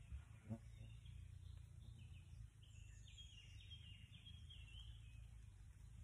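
Near silence in woodland with faint birdsong: a bird sings a quick run of short high notes from about two seconds in, over a low steady background rumble.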